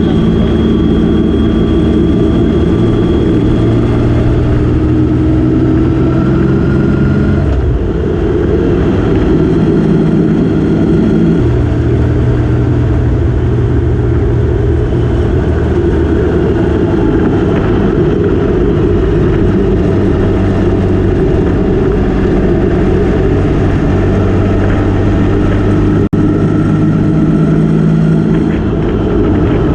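Motorcycle engine running under way with rushing wind noise, its pitch shifting in steps a few times as engine speed changes.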